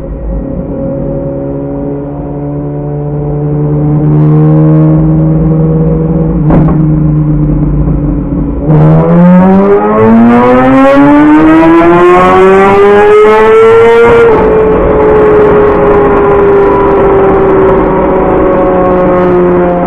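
BMW S1000RR inline-four engine through a full exhaust, running at a steady pitch with a brief click about six and a half seconds in. About nine seconds in, the throttle opens hard and the pitch climbs steadily for about five seconds. The pitch then eases slowly down.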